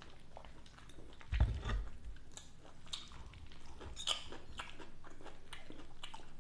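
Close-miked chewing of food, with crisp crunches and mouth clicks scattered through, and a single low thump about a second and a half in.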